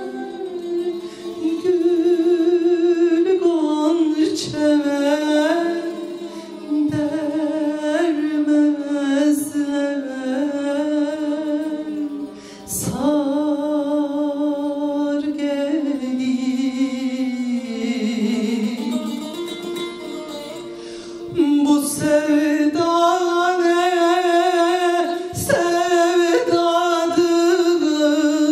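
A woman singing a Turkish folk song (türkü) in a melismatic style, with wavering, ornamented held notes, over plucked string accompaniment.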